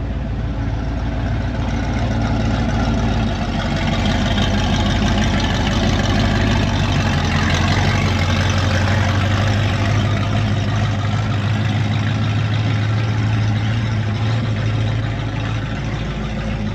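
A car engine running at low speed close by, a steady low hum that grows a little louder in the middle and eases off near the end.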